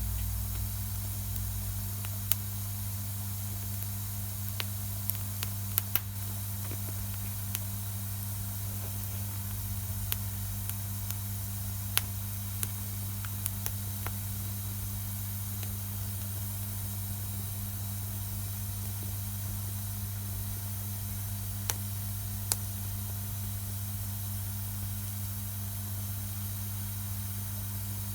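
Wood campfire burning: a steady hiss with scattered sharp crackles and pops, the loudest about twelve seconds in, over a steady low hum.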